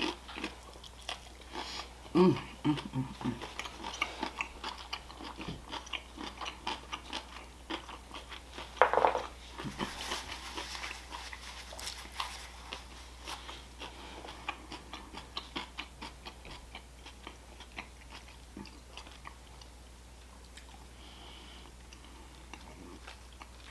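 Close-mic'd mouth sounds of a person biting and chewing roasted chicken: many short wet clicks and smacks, growing quieter over the last few seconds. About ten seconds in there is a brief paper rustle from a napkin.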